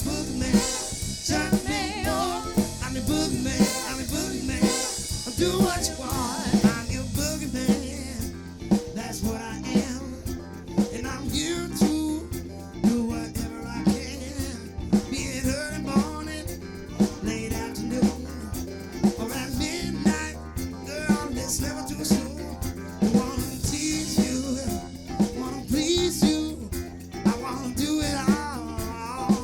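Live band playing an upbeat song, with a drum kit keeping a steady beat.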